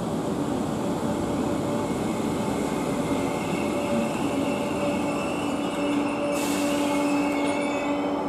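Merseyrail third-rail electric multiple unit running into the platform and braking to a stop, with a steady electric hum and a thin high brake squeal. A short hiss comes about six and a half seconds in.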